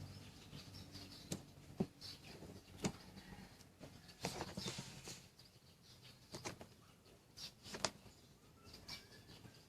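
Scattered light clicks and taps at irregular intervals over faint hiss, like small objects being handled.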